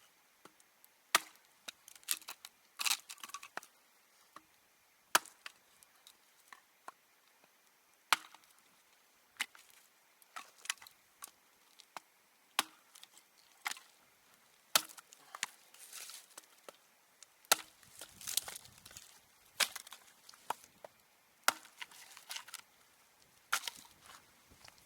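Wood being chopped: sharp, irregular strikes about every one to two seconds, with lighter knocks and splintering between them.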